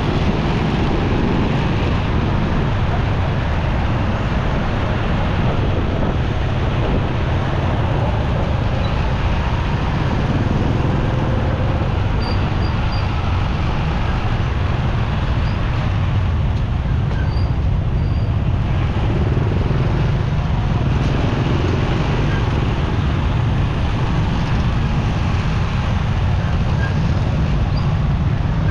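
Motorcycle ride through city traffic: steady engine, road and traffic noise, heaviest in the low end, with no letup.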